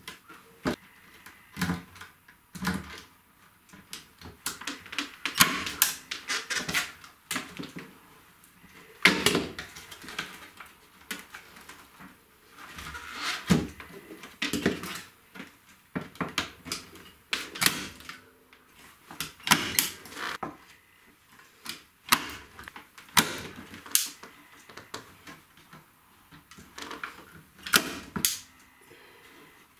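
Irregular clicks, knocks and short scrapes of hand work on a Fender guitar amplifier, as tools and parts are handled on the cabinet.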